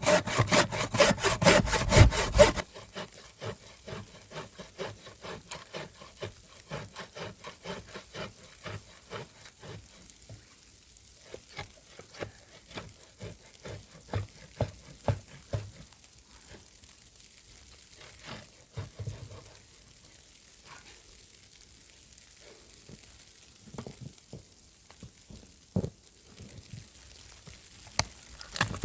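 Hand saw cutting through wood in quick, even strokes, loud for the first couple of seconds, then lighter strokes running on to about ten seconds in. After that come scattered knocks and clicks of wood being handled.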